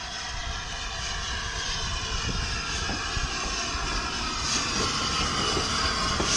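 A train approaching, a steady engine drone over a rumble that grows slowly louder, with a few clicks in the second half.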